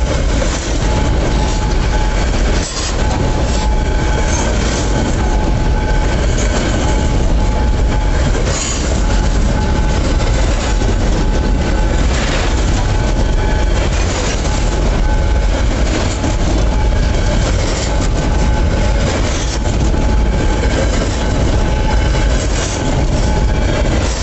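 Freight train cars rolling past at close range: a loud, continuous rumble and clatter of steel wheels on the rails, with scattered knocks and a steady high tone running through it.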